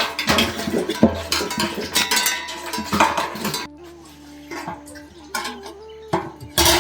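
Metal pots, dishes and utensils clattering and clinking in a quick run of knocks, going quieter after about four seconds, with one loud clatter near the end.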